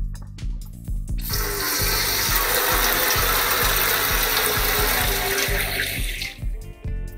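Water running hard from a kitchen sink faucet for about five seconds, starting about a second in and stopping near the end; the faucet leaks after freezing.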